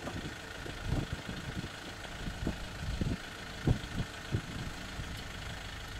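Safari vehicle's engine idling with a steady low rumble, broken by a few short, dull low thumps.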